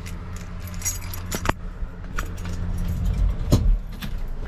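Keys jangling at the ignition of a 1979 Chevrolet pickup, then its small inline-six starting about three and a half seconds in, catching quickly.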